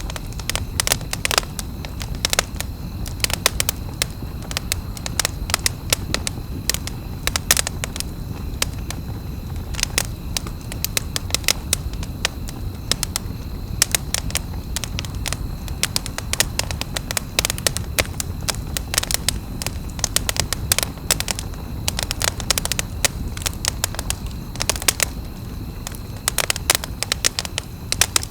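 Wood campfire burning, with dense, irregular crackles and sharp pops over a steady low rumble of the flames.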